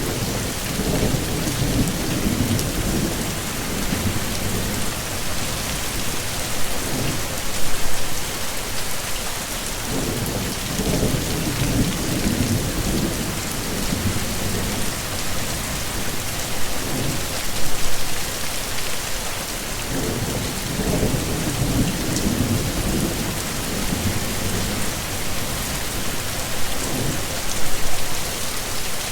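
Heavy rain pouring steadily, with low thunder rumbles swelling and fading about every ten seconds and three brief louder bursts about ten seconds apart.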